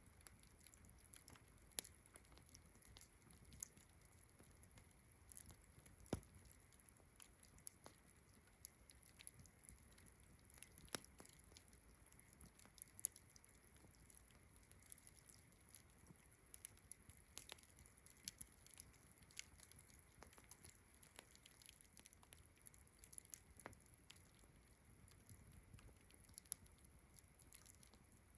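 Campfire crackling softly, with irregular sharp pops and snaps, a few louder than the rest. Underneath is a faint, steady, high-pitched chorus of distant crickets and frogs.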